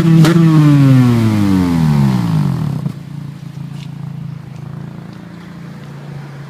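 Acura TSX engine through a Skunk2 exhaust and aftermarket intake, blipped once at the start and then falling back in pitch for about three seconds as the revs drop. It settles to a steady, much quieter idle for the rest of the time.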